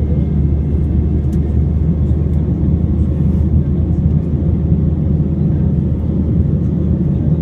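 Steady low rumble of an Airbus A320's jet engines and airflow, heard inside the passenger cabin, with a few faint steady tones above it.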